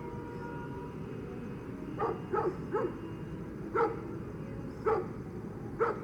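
A dog barking: six short barks, three in quick succession about two seconds in, then one roughly every second, over a steady low background hum.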